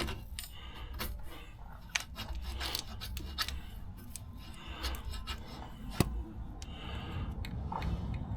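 Scattered metal clicks, clinks and scraping from hand tools and brake parts being handled during brake work, with one sharp knock about six seconds in.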